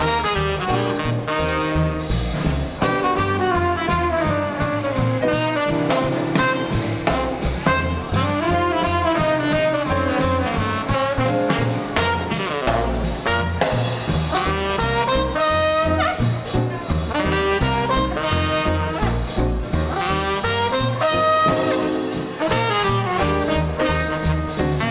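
Small-group swing band playing live: trumpet and saxophone lines over piano, bass and drums keeping a steady beat.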